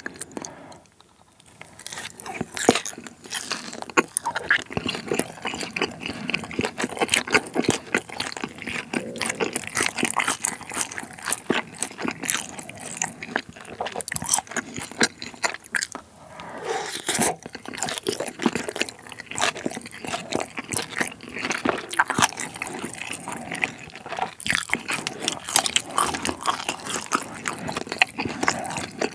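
Close-miked chewing and biting of sauce-coated fried pork (Sichuan tangsuyuk): dense, irregular crunches with wet, sticky mouth sounds, easing off briefly just after the start and again about halfway through.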